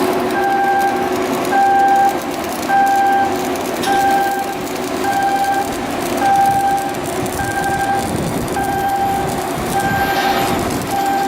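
A warning beeper sounding a short tone about once every second, over a steady din of shipyard work noise.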